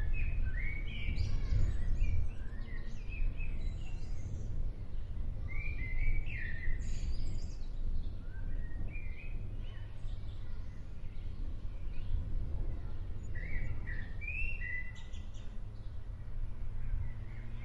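Small birds chirping in scattered short bursts over a steady low rumble of outdoor ambience.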